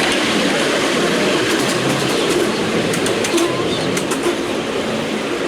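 Ride-on miniature railway train running along its track, heard from on board: a steady rumble of wheels on rail with sharp clicks over the rail joints.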